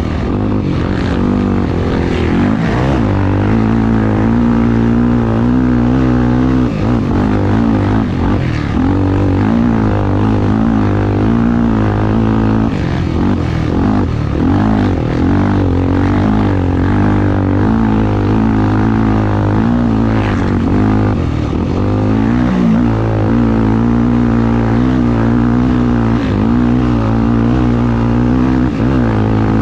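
Honda XR250 Tornado's single-cylinder four-stroke engine running hard, its revs rising and falling continuously.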